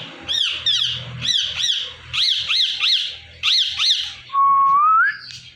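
Indian ringneck parakeet chirping in a quick series of short high chirps, about three a second. About four seconds in it gives one longer whistle that rises in pitch, the loudest sound.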